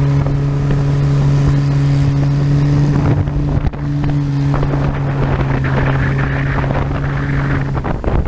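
Motorboat engine running steadily under way, with wind buffeting the microphone and water rushing past the hull; the engine note dips briefly a little under halfway through.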